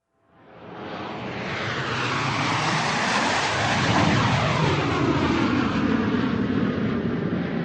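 Airplane flying overhead: its engine noise fades in from silence and swells to a loud peak about halfway through, then eases off a little, the rushing hiss sweeping in pitch as it passes.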